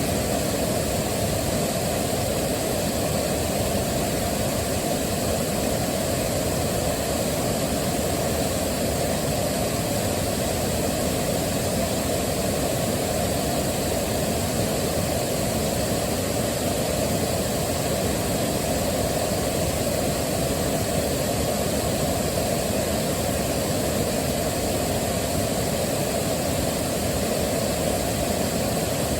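Waterfall: a steady, deep rush of falling water, unchanging throughout.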